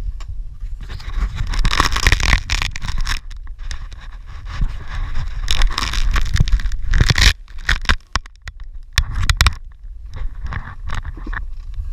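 Dirt bike riding a rough trail: a heavy low rumble broken by scraping, crackling knocks and bumps. It drops off briefly about seven seconds in, then picks up again.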